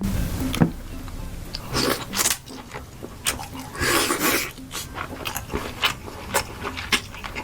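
Crab being eaten close to the microphone: an irregular string of sharp cracks and crunches from the shell, mixed with chewing.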